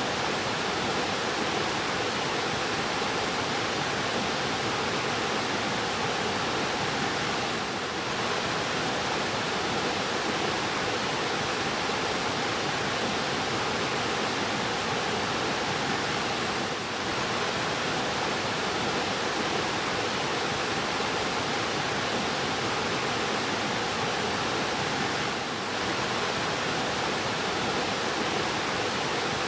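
Fast-flowing river rushing steadily, a dense unbroken roar of water.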